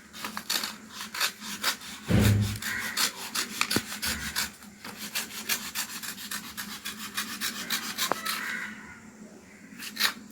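Scissors cutting a sheet of colour paper in two: a long run of short snips with paper rustling, and a dull thump about two seconds in.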